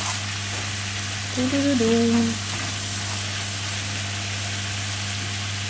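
Carrot, cucumber and funchoza glass noodles sizzling in a frying pan as a wooden spatula stirs them, over a steady low hum. A brief two-note tone sounds about a second and a half in.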